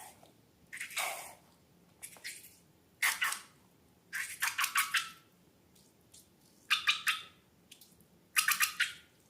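Slime being squeezed and squished by hand in about six short bursts of crackly, squelching pops, each burst a quick run of small clicks, with pauses between them.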